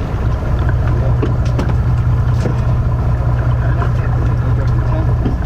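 Charter boat's engine running steadily, a low even drone, with a few faint clicks over it.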